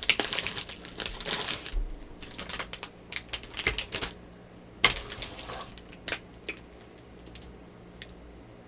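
Close-up crinkling and crackling of a plastic cookie wrapper, dense at first and then thinning to a few scattered clicks about two-thirds of the way through.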